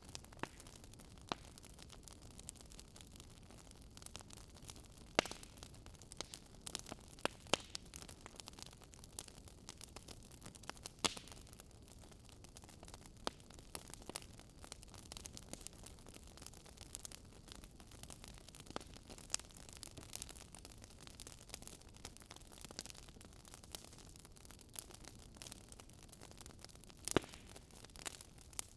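Wood fire burning in a fireplace: soft steady hiss with irregular sharp crackles and pops from the burning logs.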